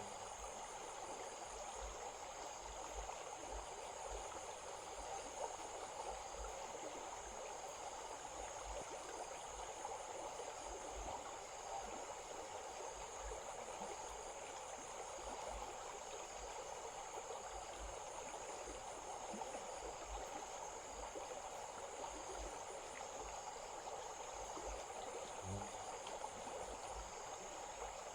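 A small stream flowing and trickling steadily, with insects keeping up a high, steady trill alongside.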